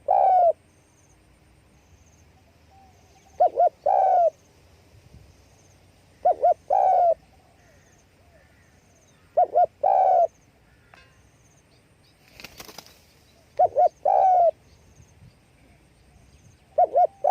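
Spotted dove cooing its three-note call, two short coos and a longer rolling coo, repeated about every three seconds: the wing-flicking display call. About 12 s in there is a brief rustle.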